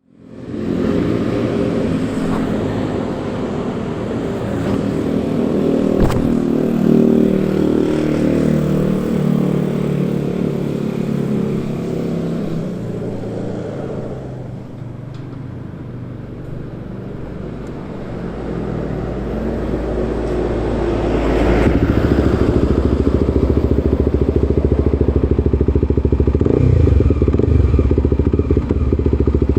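Kawasaki Ninja 250SL single-cylinder engine running through a KEA speed NA 1 aftermarket exhaust. Its pitch and loudness shift with engine speed: it eases off through the middle, then rises and gets louder again near the end. There is a single sharp click about six seconds in.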